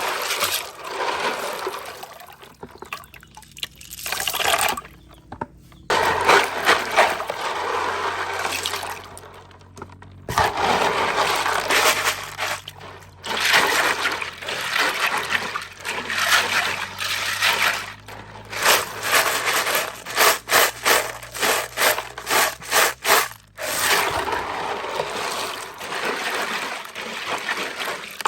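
Water sloshing and splashing in uneven bursts, with a run of quick repeated splashes about two-thirds of the way through.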